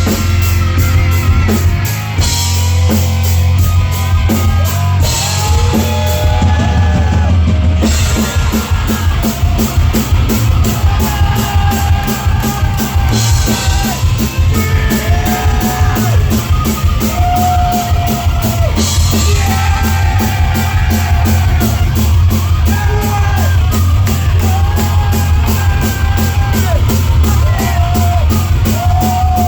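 Live heavy metal band playing loud, with fast, steady drums and distorted guitars under a melody of held, bending notes.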